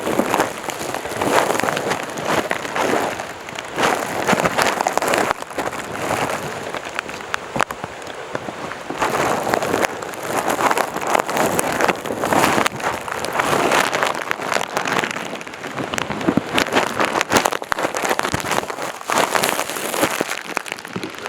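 Footsteps and clothing or pack rustle of a hiker climbing a mountain trail, a noisy crunch-and-rustle coming in swells about once a second.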